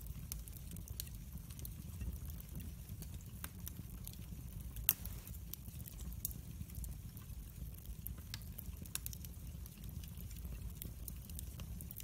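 Fire burning in a fireplace, crackling with many small irregular pops over a steady low rumble of the flames, with one sharper pop about five seconds in.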